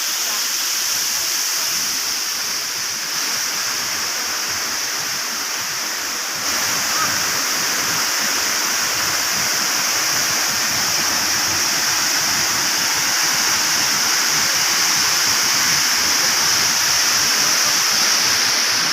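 Waterfall rushing in a steady, dense hiss of falling water, a little louder from about six seconds in.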